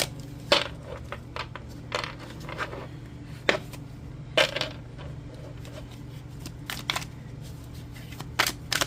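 Tarot cards being shuffled and handled: irregular short card snaps and taps, over a steady low hum.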